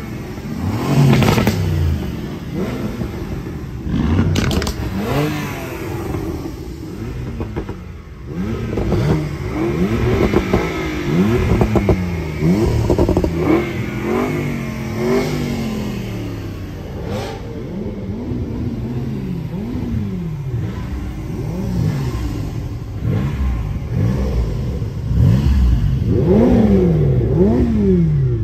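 Sports car engines revving hard as a line of cars pulls away past the roadside. The engine notes rise and fall in pitch again and again, one car after another.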